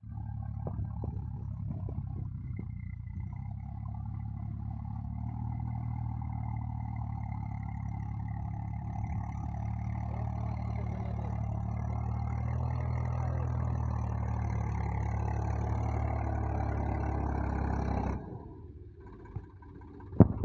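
Swaraj 744 tractor's three-cylinder diesel engine running steadily at high revs, with a few knocks in the first couple of seconds; the engine sound drops off sharply about 18 seconds in.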